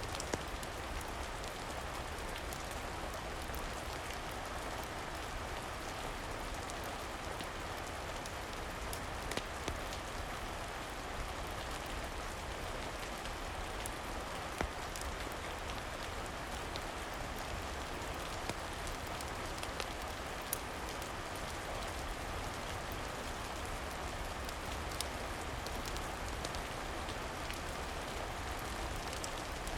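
Steady rain falling on a surface, with a low rumble under it and scattered sharp ticks or pops every few seconds.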